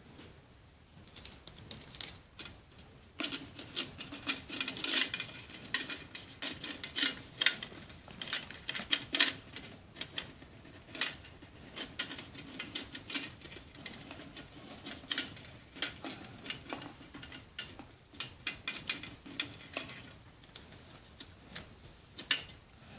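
Hands handling small tin-can and wire parts of a homemade Stirling engine: irregular light clicks and taps with scraping and rubbing, picking up about three seconds in.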